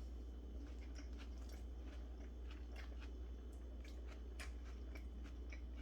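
Close-up chewing of a dressed-up chicken sandwich, with soft, irregular crunches and wet clicks of the mouth.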